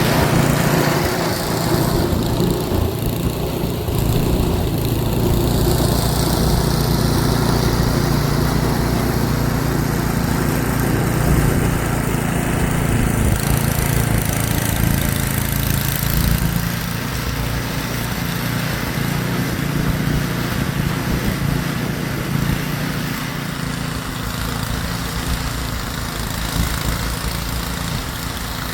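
Snowblower's small engine running steadily, a little quieter from about halfway in.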